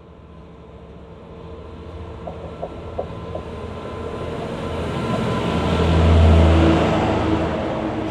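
Class 66 diesel locomotive's two-stroke V12 engine running as it hauls a container freight train past, growing louder to a peak about six seconds in as the locomotive goes by. The container wagons follow, rolling along the rails as the level eases off.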